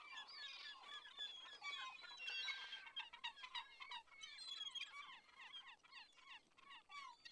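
Faint, dense chatter of many short chirping calls from a flock of birds.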